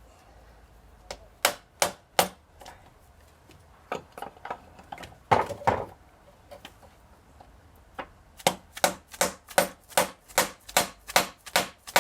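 Hammer blows driving a stuck piston and connecting rod out of a Chevy V8 block: a few scattered knocks, then steady tapping about two or three times a second from about two-thirds of the way in.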